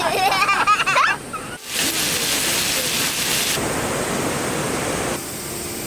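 A chicken clucking for about the first second, then, after a short break, a steady rush of flowing river water that lasts to the end.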